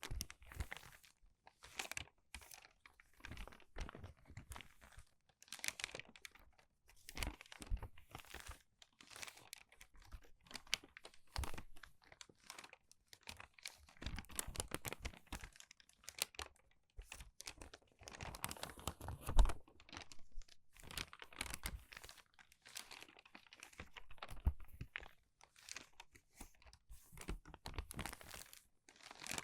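Crinkled, crumpled paper pages being turned quickly one after another: a run of short crinkling rustles, with one louder crinkle a little past the middle.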